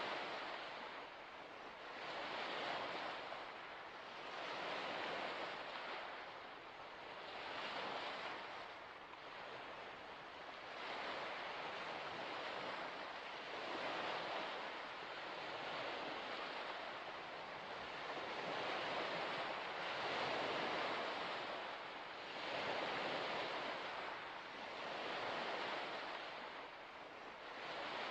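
Waves washing onto a shore, a noisy rush that swells and eases in a steady rhythm, about one swell every two to three seconds.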